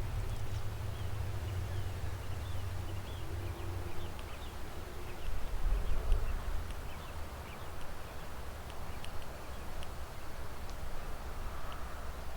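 Wind buffeting the microphone as a steady low rumble that rises and falls in gusts, with many faint short high chirps scattered over it.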